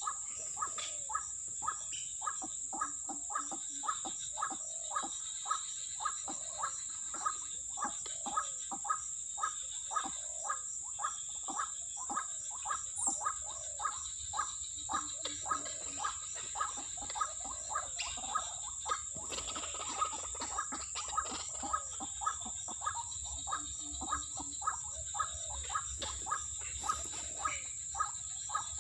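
White-breasted waterhen (ruak-ruak) calling, a steady rhythmic series of short harsh notes about one and a half a second, over a continuous high insect drone.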